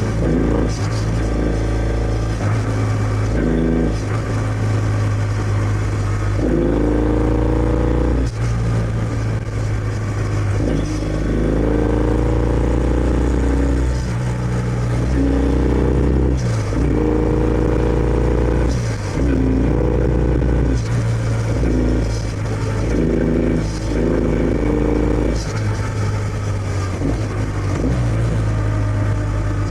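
Kawasaki W650's air-cooled parallel-twin engine through its stock exhaust while riding, the engine note repeatedly climbing in pitch and dropping back as the throttle opens and closes.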